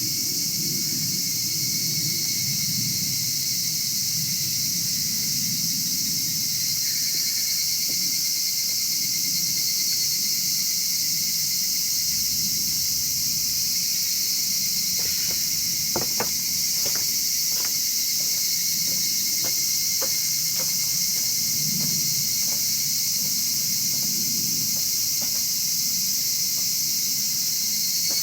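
A steady, high-pitched chorus of insects chirping, with a wood fire in a chimney stove crackling underneath; from about halfway through, a string of sharp pops from the burning wood.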